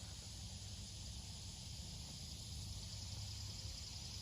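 Outdoor field ambience: steady, faint insect chirring with a low rumble of wind underneath.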